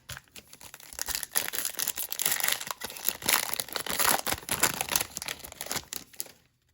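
Foil wrapper of a trading-card pack crinkling and tearing as it is ripped open, a dense run of crackles and rips that stops shortly before the end.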